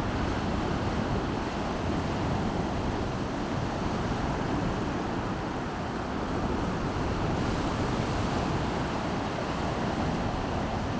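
Baltic Sea waves washing onto the beach in a steady surf, with wind blowing.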